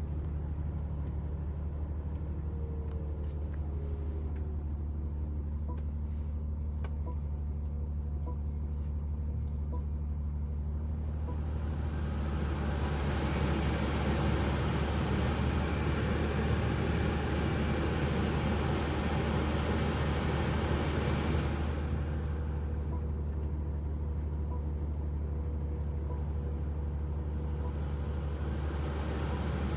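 BMW climate-control blower fan ramping up to a strong rush of air about twelve seconds in and dropping back about ten seconds later, over a steady low hum of the car. Faint, evenly spaced ticks come before and after the rush.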